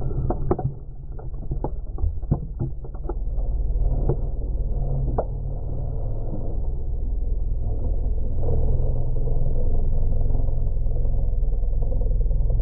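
A rally car's engine, a low steady rumble that grows louder over the second half, with a quick run of sharp clicks or knocks in the first few seconds.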